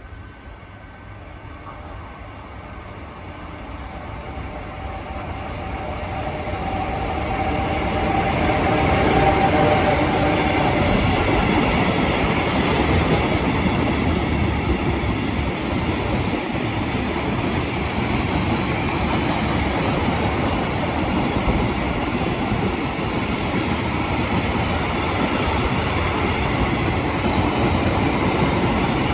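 A train approaching and running past on the line, its rumble of wheels on rails growing steadily louder over the first eight or nine seconds and then holding loud and steady, with a faint whine as it nears.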